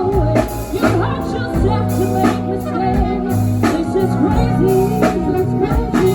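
Live band playing a soul/R&B number: drum kit keeping a steady backbeat under bass, organ and a sung or played melody line.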